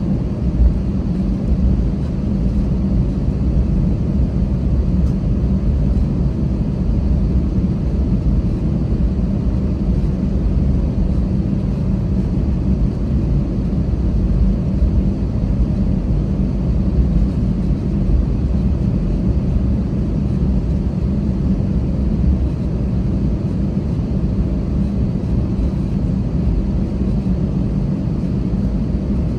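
Airbus A320 cabin noise: a steady low rumble of the engines and airframe, with no rise or fall in loudness or pitch.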